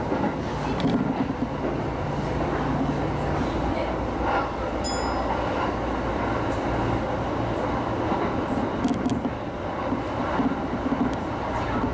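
Electric commuter train running along the line, heard from the front of the train: a steady rumble of wheels on rail with a low motor hum and a few light clicks.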